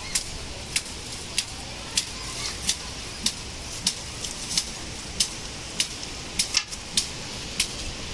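Steady hiss of rain and storm wind, with sharp ticks about every half second or so.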